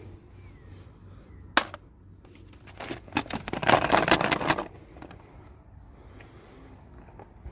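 Packaging of a toy unboxing being handled: one sharp click about one and a half seconds in, then about two seconds of dense crackling and rustling as it is opened.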